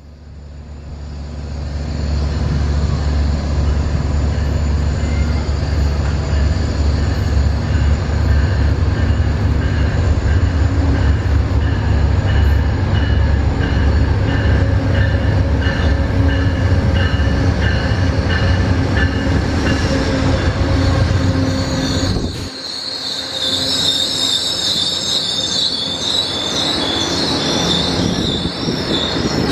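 Amtrak GE P42DC diesel locomotive rumbling past as the train arrives, its engine building up over the first couple of seconds. About 22 seconds in the engine sound drops away and the passing cars' wheels take over with a high squealing.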